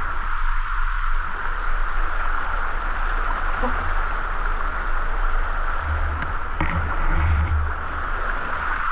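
Steady rushing of a waterfall pouring into its pool, with faint voices briefly about six to seven seconds in.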